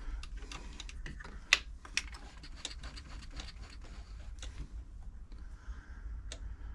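Irregular light clicks and taps from hands working a Silver/Pfaff 1139 sewing machine by hand to bring the bobbin thread up, with two sharper clicks about one and a half and two seconds in, over a low steady hum.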